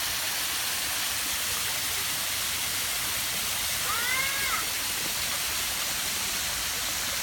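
Waterfall: steady rushing water. A single brief high-pitched call sounds over it about four seconds in.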